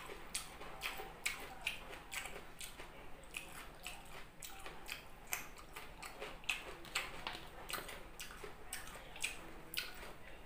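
A person chewing food, with irregular wet mouth clicks and smacks several times a second.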